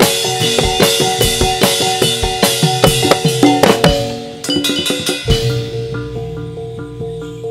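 Live Javanese gedruk dance-troupe music: drums and ringing cymbal-like percussion play a dense, fast beat. About five seconds in, the drums drop away, leaving repeated pitched metal-percussion notes over a held tone.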